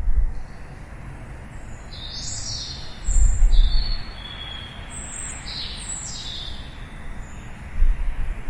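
Songbirds chirping in a quick run of short, high calls, some sliding down in pitch, over a steady outdoor hiss. Low rumbles come at the start, about three seconds in, and near the end.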